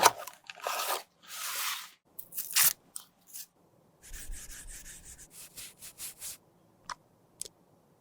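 Pressed highlighter powder being scraped and crushed: a few long rasping scrapes, then a quick run of short scrapes about halfway through, with sharp clicks between them.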